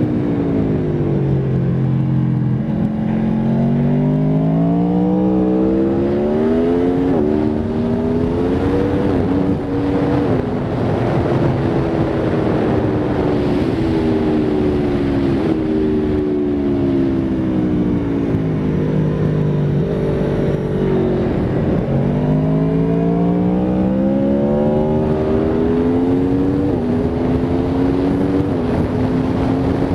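Aprilia Tuono V4 RR's V4 engine at full throttle on track. It revs up hard through the gears with several quick upshifts where the pitch drops sharply, and twice falls to a low pitch under braking for a corner before climbing again. Steady wind rush on the onboard microphone runs throughout.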